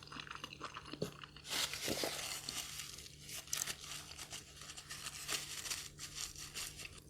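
Crisp fried food being bitten and chewed close to the microphone: a dense run of fine crunching crackles that is loudest from about one and a half seconds in and eases off near the end.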